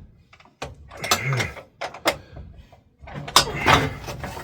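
Metal knocks, clicks and rattling from hand tools worked against an oil furnace's burner housing: a few separate sharp knocks, then a busier stretch of clatter and scraping from about three seconds in.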